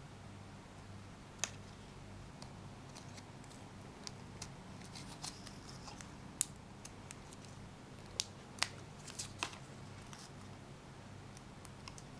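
Kinder Joy egg packaging being handled: scattered sharp plastic clicks and short crinkling rustles, the loudest clicks about a second in and near two-thirds of the way through, over a steady low hum.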